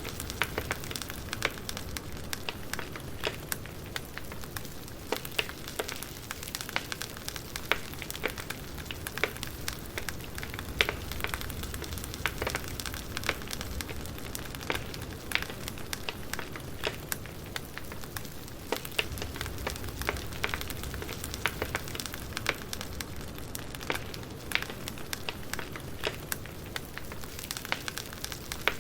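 Burning firewood crackling: a steady hiss with irregular sharp pops and snaps throughout.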